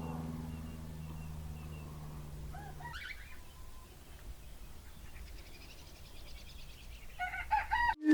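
Birds calling: a few short rising calls about three seconds in and a burst of calls near the end, over a low steady hum that fades after about three seconds.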